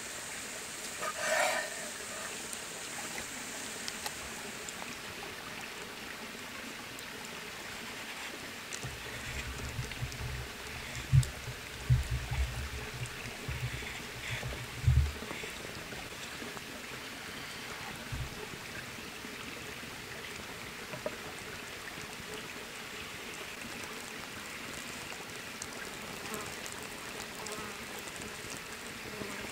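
Steady rushing hiss, with a brief clatter near the start and a run of soft low thumps and knocks between about nine and fifteen seconds in.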